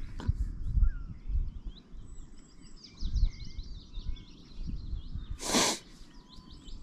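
Small birds singing with rapid, repeated chirps over a low, uneven rumble, and one short, loud rushing hiss about five and a half seconds in.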